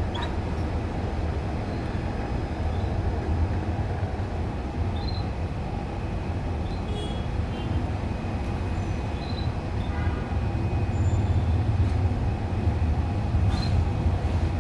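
A steady low rumble, getting a little louder past the middle, with a few faint, short canary chirps scattered over it and a brief click about 13 seconds in.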